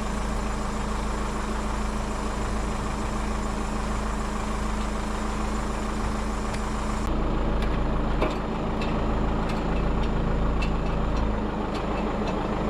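Heavy diesel engine idling steadily. From about halfway through, short sharp clicks and knocks sound over it.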